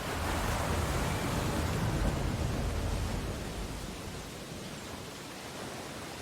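Ocean surf: a wave breaks right at the start, a rushing swell of noise that eases back over about three seconds into a steady wash.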